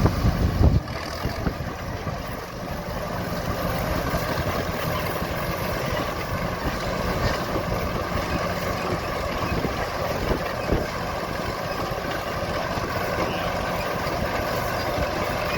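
Vintage combine's engine running steadily, just started after a hard start. Wind buffets the microphone in the first second.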